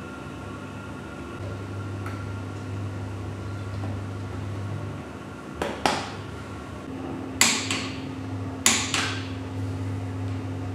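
Hand tools clicking and knocking on engine parts: three pairs of sharp clicks over a steady low hum.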